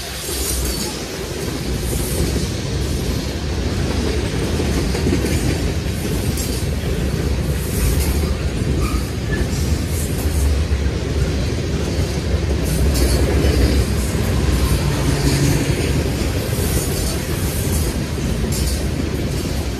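Freight train of covered grain hopper cars rolling past: a steady low rumble of steel wheels on rail, with irregular clicks and clacks from the wheels and rail joints.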